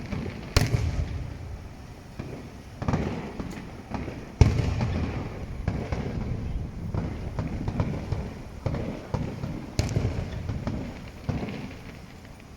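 Aerial fireworks shells bursting: a series of sharp booms, each followed by a rolling rumble. The loudest comes about four and a half seconds in.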